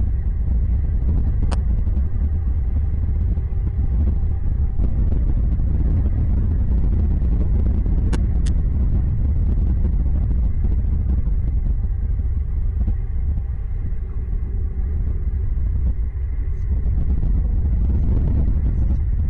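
Steady loud low rumble, like wind buffeting an outdoor microphone, with three brief high chirps: one about 1.5 s in and two close together about 8 s in.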